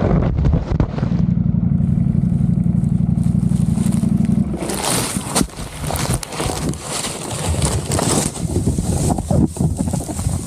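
Motorcycle engine running loudly and steadily, then about four and a half seconds in it gives way to a rushing noise with scattered knocks and scrapes as the bike crashes.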